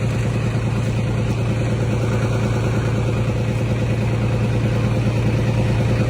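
A steady low mechanical drone with a constant pitch.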